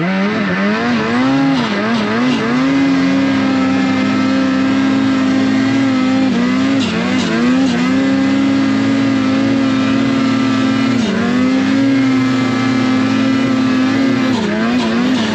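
Snowmobile engine running hard at a steady high pitch, easing off and coming back on several times, about a second in, around six seconds, around eleven seconds and near the end.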